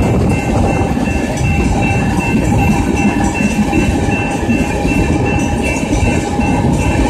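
Freight train of loaded tank cars rolling past at close range: a steady, loud rumble of steel wheels on rail with some clickety-clack over the joints. A grade-crossing warning bell rings a high, repeated tone about twice a second over the train.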